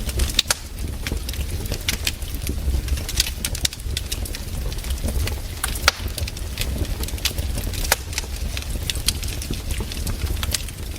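Campfire crackling, with irregular sharp pops and snaps from the burning wood over a low steady rumble.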